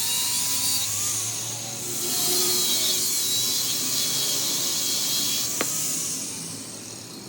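A power tool working, with a steady high-pitched hiss and a single sharp click about five and a half seconds in.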